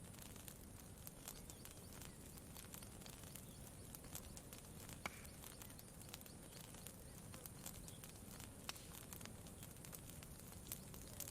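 Faint campfire crackling: scattered sharp pops and snaps, a few louder than the rest, over a low steady background noise.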